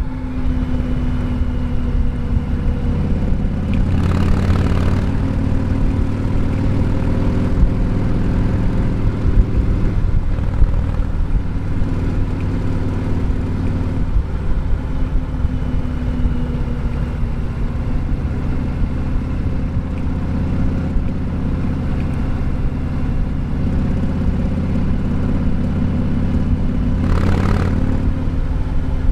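Harley-Davidson Sport Glide's Milwaukee-Eight 107 V-twin running steadily under way, with two short rushes of noise, about four seconds in and near the end.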